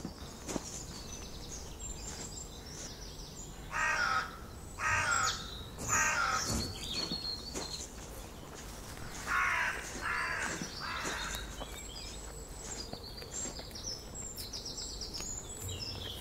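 Birds calling: a large bird gives two runs of three harsh caws, about a second apart, over faint high chirping of small birds.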